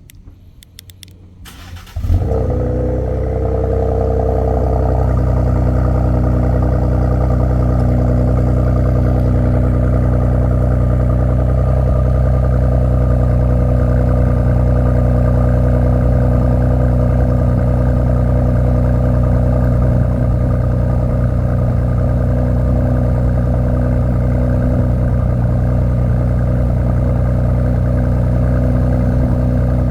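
Ford Explorer ST's twin-turbo V6 cold-starting through an MBRP axle-back exhaust: a few short starter clicks, then the engine catches with a sudden jump in level about two seconds in and settles into a loud, steady cold-start idle.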